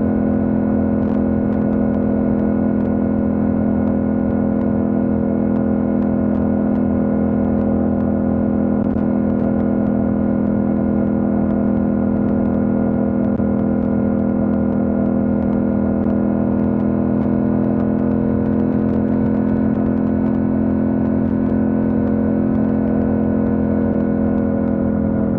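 Yamaha MT-07's 689 cc parallel-twin engine running at a steady cruise, its note holding almost level and sinking slightly over the stretch.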